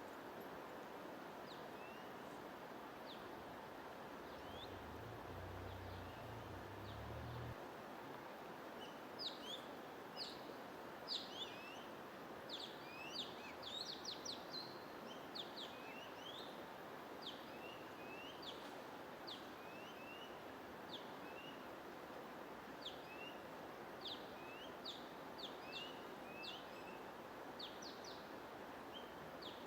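Small birds chirping: short, quick downward-sweeping chirps, sparse at first and busier from about nine seconds in, over a steady hiss of noise.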